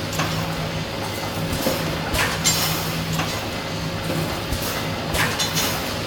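Automatic pneumatic wire mesh welding machine working through its cycle. A low electrical hum cuts in and out, and short hissing air releases and clinks come every second or so.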